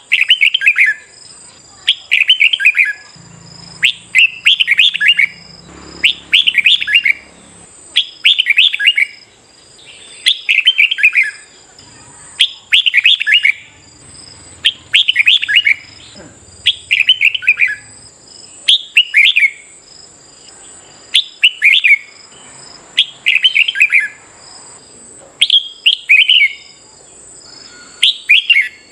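Red-whiskered bulbul singing its competitive song: short, loud, chattering phrases repeated about every one and a half to two seconds.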